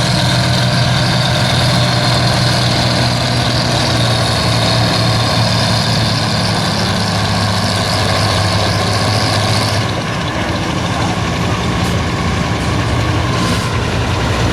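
Modified pulling tractor's engine running loud and steady, easing off about ten seconds in.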